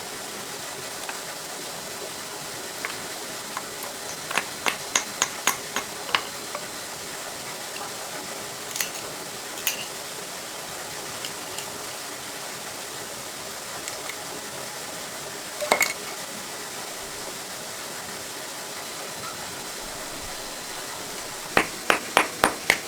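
Sharp metal-on-metal taps and clinks from hand tools on tractor parts, over a steady hiss. A short run of taps comes about four seconds in, then a few single clinks, a louder knock about two-thirds of the way through, and a quick run of about seven taps near the end, as a pin is fitted.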